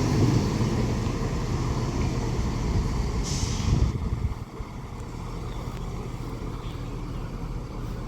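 Train rumbling at a station platform with a short burst of air hiss about three seconds in. The rumble drops away about four and a half seconds in, leaving a quieter steady hum.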